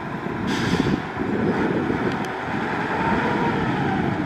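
Heavy diesel construction machinery running steadily with a deep engine rumble, with a brief hiss about half a second in and a faint whine around three seconds in.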